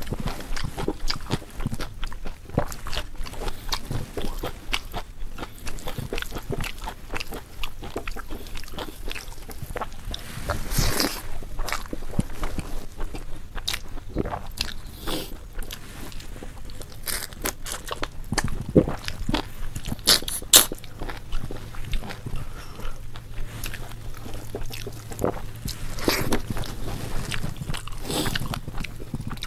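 A person eating close to the microphone: steady chewing with crunching bites and wet mouth clicks and smacks.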